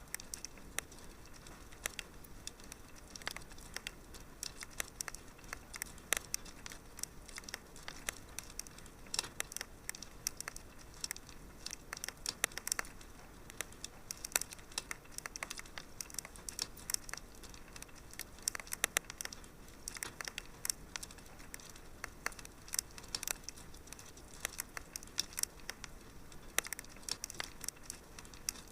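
Wood fire crackling in a fireplace: gentle, irregular snaps and pops, several a second, over a faint steady hiss.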